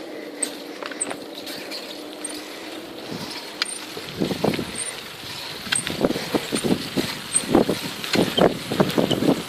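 Bicycle in motion on a path: steady rolling noise with a faint, short, high squeak repeating about once a second. From about halfway through, irregular louder rumbling and buffeting joins in.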